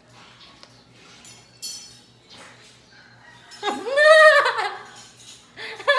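Faint eating noises, then about halfway through one loud, drawn-out, high-pitched vocal cry that rises and falls, with a short burst of laughing near the end.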